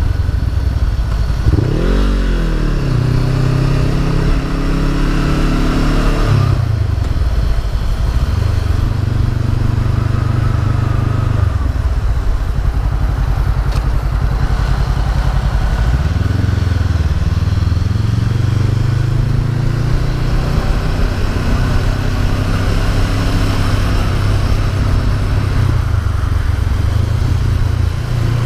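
Honda CB500F's parallel-twin engine running under way, its pitch going up and down with the throttle: a quick rev about two seconds in, a drop near six seconds, and a rise again around the middle, steady between.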